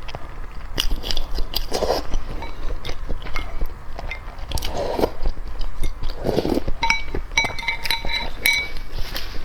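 Close-up mukbang eating sounds: biting, crunching and wet chewing of seafood, with a few ringing clinks about two-thirds of the way through.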